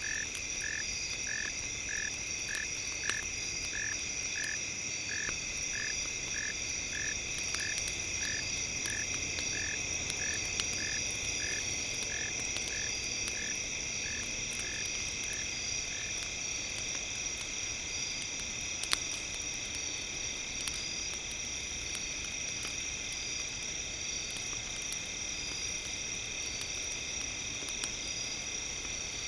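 Campfire crackling with sporadic sharp pops, over steady high tones. A regular chirping pulse repeats about one and a half times a second and stops about halfway through.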